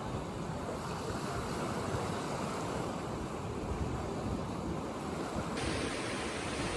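Sea surf washing steadily, with wind buffeting the microphone. Near the end the hiss suddenly turns brighter.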